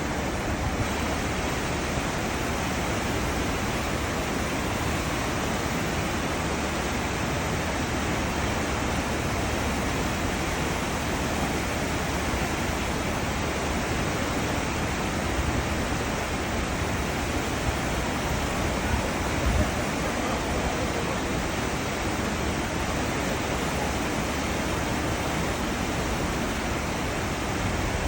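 Churning water of a cruise ship's wake, a steady, even rush of foaming seawater.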